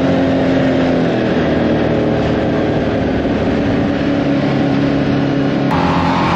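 Off-road vehicle engine running while being ridden, its note dropping about a second in and climbing again a few seconds later.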